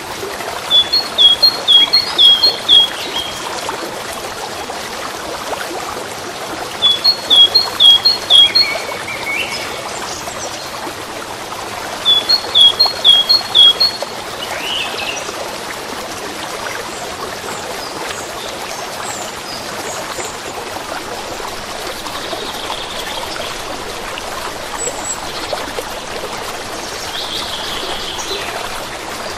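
Steady sound of running water, a stream trickling, with a songbird singing a short phrase of about five quick repeated notes three times, about five seconds apart, in the first half. Fainter, scattered bird chirps follow later.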